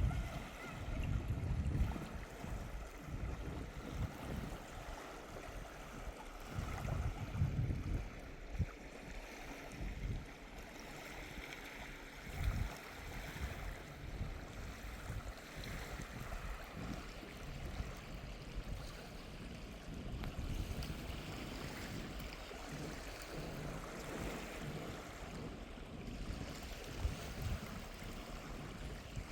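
Gentle waves washing onto a sandy shore in a steady hiss, with the sea breeze buffeting the microphone in low gusts, strongest about a second in and again around seven seconds.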